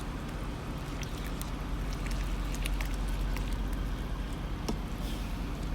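Steady low hum of an idling truck engine, with scattered light ticks and crackles from noodles and sauce cooking in the pan.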